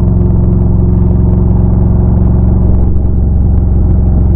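Motorcycle engine running steadily at cruising speed, with a deep, even rumble.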